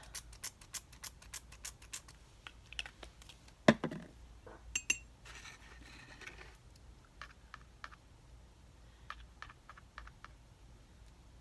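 Quick run of light clicking taps, about six a second, then a single sharp knock and scattered taps: a paintbrush being tapped to flick splatters of gold paint onto paper.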